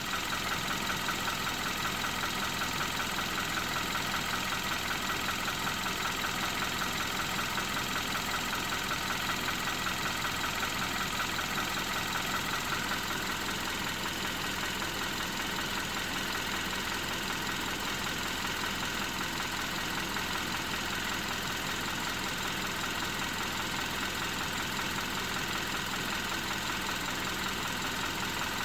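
2012 Hyundai Accent engine idling with a fast, steady knocking, most distinct in the first half; the owner does not know its cause.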